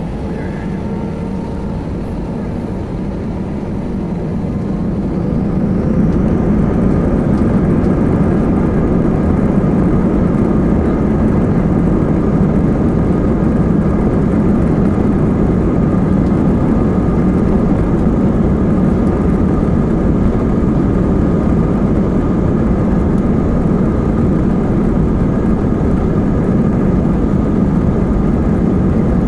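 Airbus A320 jet engines spooling up to takeoff thrust: the noise swells over about two seconds, starting about four seconds in, then holds steady and loud through the takeoff roll.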